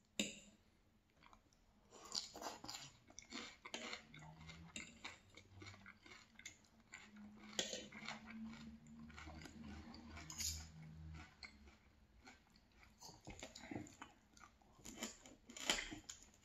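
A person chewing and crunching a meal of fried fish, rice and lettuce salad, with sharp clicks of a knife and fork against the plate.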